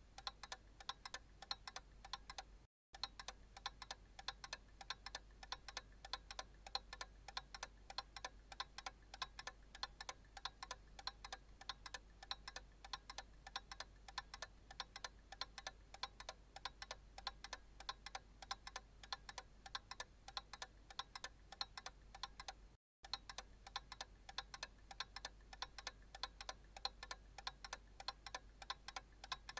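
Analog clock ticking in quick, even ticks. The sound cuts out completely for a split second twice, about 20 seconds apart.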